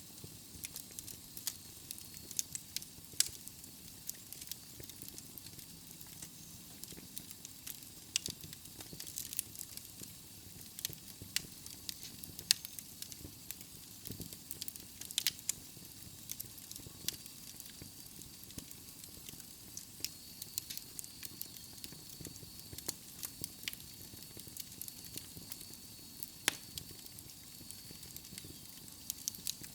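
Wood logs burning in a fireplace, crackling with frequent irregular sharp pops over a soft hiss.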